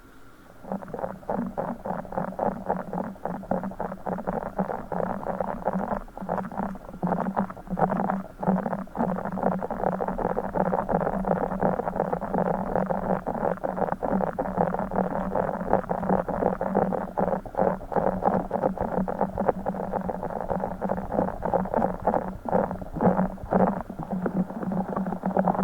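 A broken Orbeez ball, a squishy ball filled with water-gel beads, squeezed and squished close to the microphone: a dense, continuous run of rapid wet squelches and crackles, with brief pauses.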